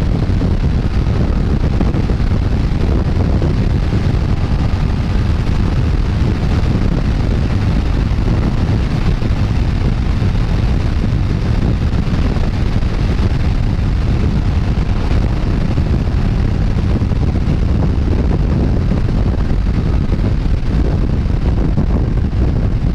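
Wind rushing over the microphone of a motorcycle riding at speed: a steady, loud rush, heaviest in the low end, with no clear engine note standing out.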